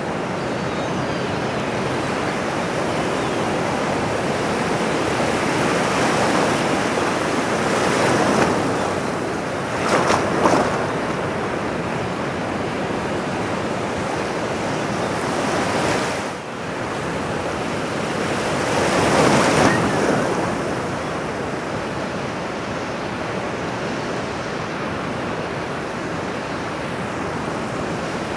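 Ocean surf: a steady rush of waves, with louder breakers swelling up about 8, 10 and 19 seconds in.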